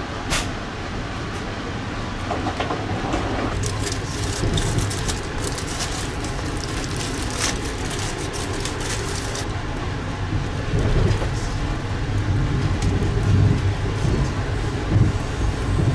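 Passenger train running, heard from inside the coach as a steady low rumble. From about three and a half to nine and a half seconds in, an aluminium foil sandwich wrapper crinkles in the hands.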